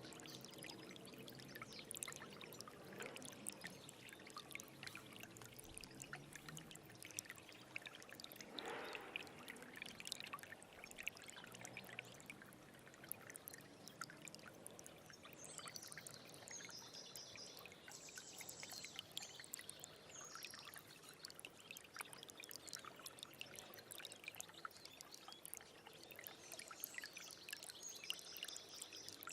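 Small stream trickling and babbling over stones, a faint, even rush of water full of little splashes. A few high chirps come through in the second half.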